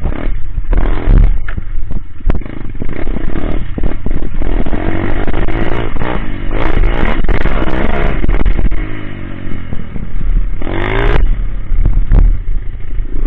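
Coolster Speedmax 125 pit bike's single-cylinder four-stroke engine, fitted with a big-bore exhaust, revving up and down repeatedly while the bike is ridden, with a sharp rev-up near the end and rattling from the loose, worn machine. The owner blames its rough running and missing off idle on a wrong-size pilot jet.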